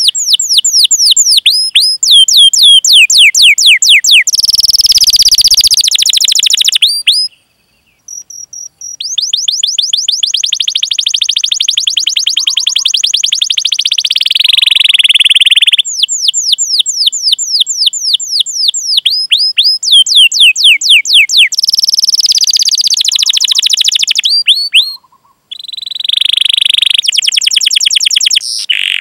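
Canary singing: rapid runs of high, downward-sweeping 'cuit cuit' chirps alternating with fast rolling trills, broken by two short pauses.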